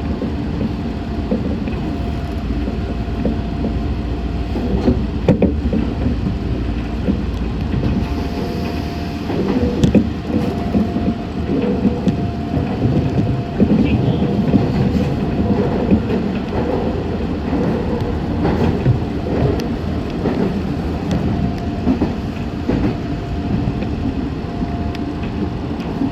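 Meitetsu 6500 series electric train running at speed, heard from inside the car: a steady rumble with a faint held tone and occasional clicks of the wheels over rail joints.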